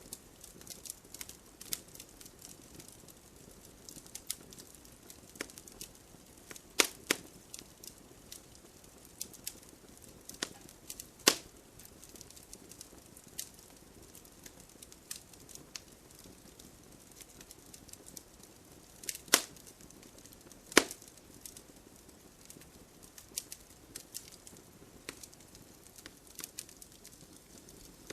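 Wood logs burning in a campfire, crackling with irregular small snaps and a handful of sharper, louder pops.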